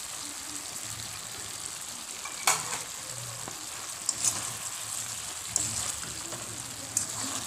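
Vegetables sizzling in a hot wok while eggplant pieces are added and stirred in with a spatula, with several sharp knocks of the spatula and pieces against the pan, the loudest about two and a half seconds in.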